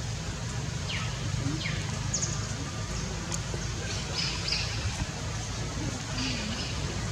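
A few short, high bird chirps, some sweeping downward in pitch, over a steady low rumble.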